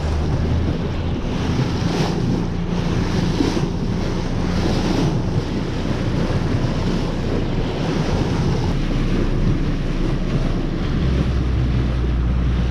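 Wind buffeting the microphone over waves and water slapping around a small boat's hull, with a low steady hum underneath and a few brief louder gusts.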